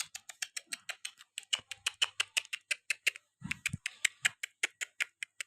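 A person calling a cat with a fast run of tongue clicks, about five or six a second, with a short pause about a second and a half in.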